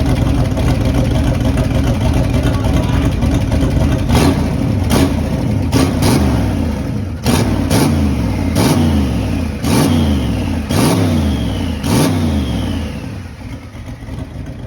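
Turbocharged small-block Chevy V8 running roughly, then blipped about eight times, roughly once a second, each rev rising sharply and dropping back, with a high whistle falling away after several of the later blips. It settles back to a quieter idle near the end.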